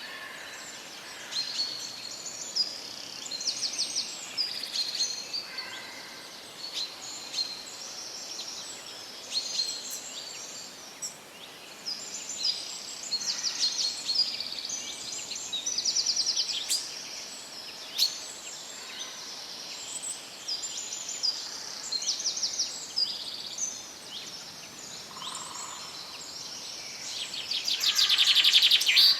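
Several songbirds chirping, whistling and trilling in a forest chorus, over a faint steady background hiss. A louder rapid trill comes near the end.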